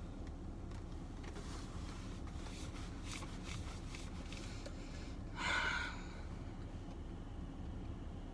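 A person chewing a bite of sandwich with the mouth closed: faint wet clicks over the first few seconds, then a short breathy puff of air about five seconds in, over a steady low hum.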